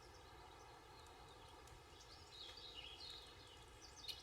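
Near silence: faint outdoor ambience with small birds chirping now and then, a short trill near the end.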